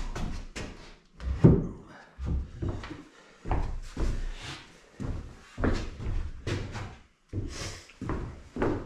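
Irregular knocks and thumps, about one every half second to a second, like wooden doors or panels being knocked and handled during carpentry work.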